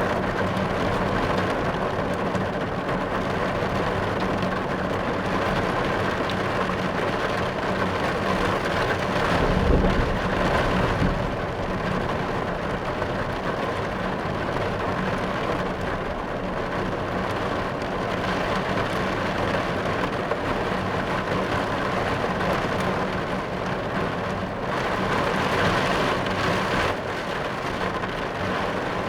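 Heavy rain drumming steadily on a car's roof and windshield, heard from inside the car. A low rumble of thunder swells about ten seconds in.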